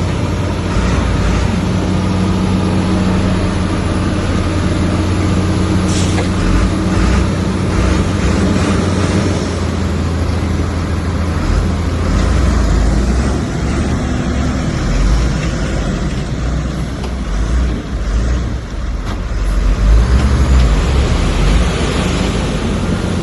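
Heavy earthmoving machine's diesel engine running steadily, with a brief sharp clank about six seconds in.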